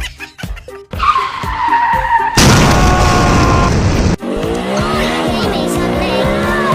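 Edited sound effects over background music: a short beat, then a loud screeching noise burst like a car skid for almost two seconds, then a wavering pitched sound.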